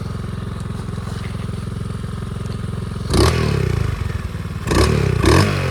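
Small pit bike engine idling with a fast, steady pulse. It is revved up about three seconds in and blipped twice more near the end, its pitch rising with each rev.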